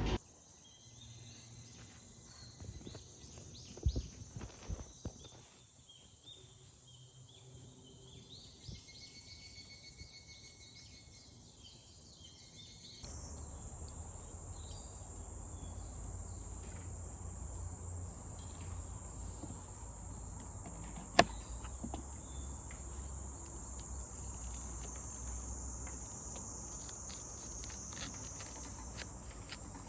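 Night insects, crickets among them, chirping in a steady high chorus, with a few soft clicks in the first half. About halfway through the chorus suddenly gets louder over a low rumble, and a single sharp click stands out later.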